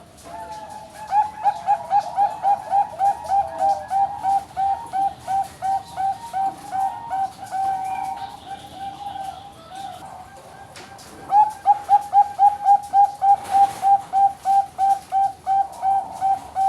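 Zebra dove (Bangkok-bred perkutut) singing its cooing song, a long run of short repeated notes at about three a second. The first bout fades out about ten seconds in, and a second bout starts about a second later.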